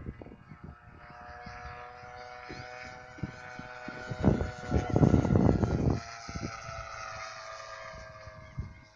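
Model airplane engine running in flight with a steady note that sinks slowly in pitch as it flies past. A loud low rumble cuts in midway.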